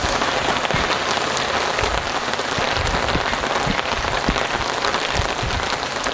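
Heavy rain pouring steadily, a dense patter of drops with occasional low knocks.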